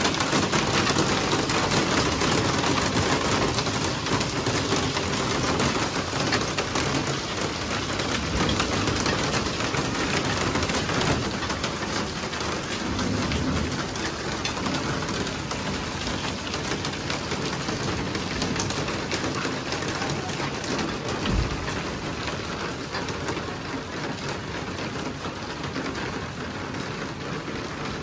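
Heavy rain falling steadily on a concrete terrace, its walls and railing: a dense, even hiss of splashing drops that eases slightly over time. A single brief low thump comes about two-thirds of the way through.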